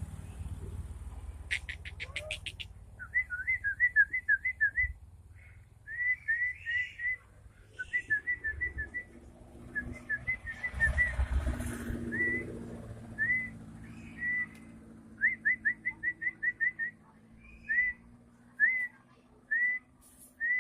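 Short, clear whistled notes at one pitch, each with a quick upward flick, given in fast runs of six to eight with pauses between the runs.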